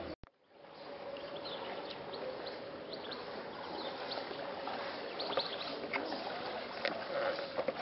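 Outdoor ambience over a steady hiss, with small birds chirping now and then. There is a brief gap in the sound just after the start.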